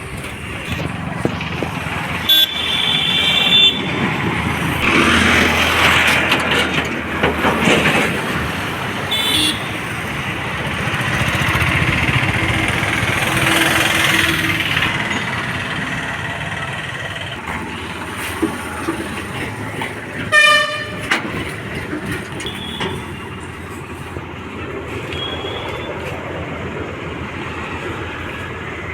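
Steady rumble of engines and road traffic, with vehicle horns sounding three times: once for over a second near the start, briefly about nine seconds in, and loudest about twenty seconds in.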